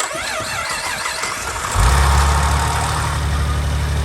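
Saab 9-3's swapped-in 2.8-litre V6 cranking on the starter, catching a little under two seconds in and settling into a steady idle. This is the first start of a spare engine that had sat unused for a couple of years.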